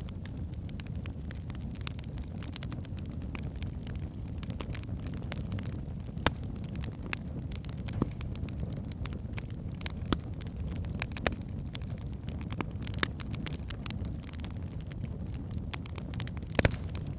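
Wood fire burning in a fireplace: a steady low rumble of flames with irregular crackles and sharp pops of the burning logs, a few louder snaps scattered through.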